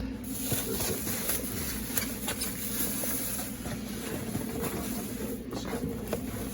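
Faint rustling and a few light clicks from a takeout food container being handled and opened, over a steady room hum.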